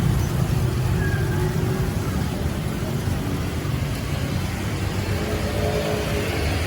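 Steady low rumble of passing street traffic, with a faint pitched sound briefly about five seconds in.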